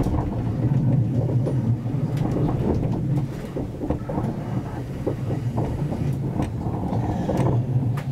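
Passenger train running on the track, heard from inside the carriage: a steady low rumble with irregular clicks and knocks from the wheels passing over the rail.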